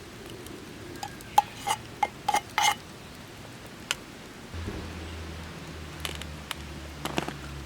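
Metal camp cookware clinking and ringing, about six sharp knocks in quick succession, then a few lighter clicks. About halfway through, a steady low hum starts and keeps going.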